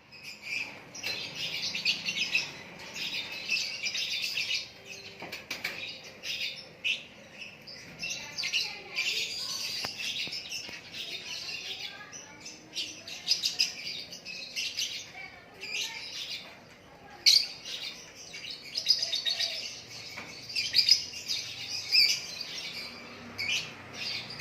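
A lakbet songbird singing: a rapid, continuous stream of high chirps and twitters in long phrases with short pauses.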